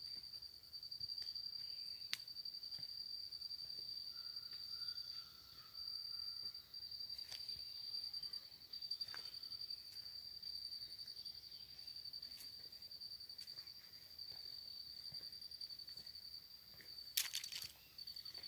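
An insect trilling steadily at one high pitch, with brief gaps. A few scattered clicks, and a sharp click about 17 seconds in is the loudest sound.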